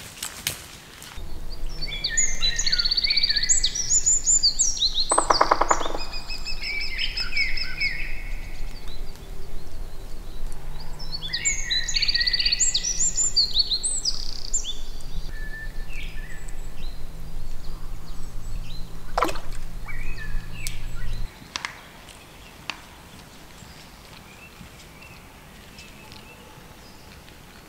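Songbirds singing: two bursts of varied, trilling song about two seconds and eleven seconds in, with a short low rattle at about five seconds. A low steady hum lies under them and cuts off suddenly about 21 seconds in.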